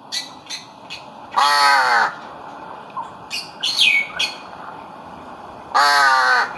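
Captive crow giving two loud, harsh caws, each under a second and about four seconds apart, with short, quieter calls in between.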